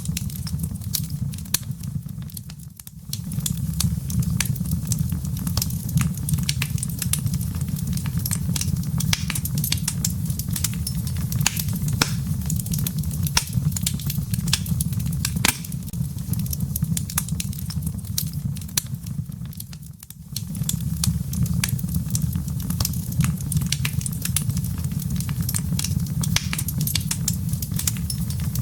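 Wood fire burning in a fireplace: a steady low rumble with dense, irregular crackles and sharp pops from the burning firewood. The fire sound dips down briefly twice, near the start and about two-thirds of the way through.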